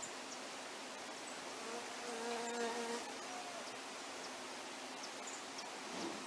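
A buzzing wing hum of a small flier passing close, lasting about a second, with a second short buzz near the end, over a steady outdoor hiss.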